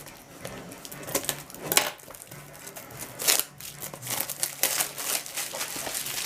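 Packaging crinkling and tearing in irregular bursts as a blind-box Funko vinyl figure is unwrapped by hand.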